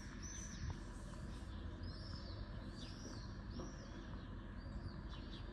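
Small birds chirping: short, high chirps repeated irregularly, over a steady low background rumble. A single faint click comes a little under a second in.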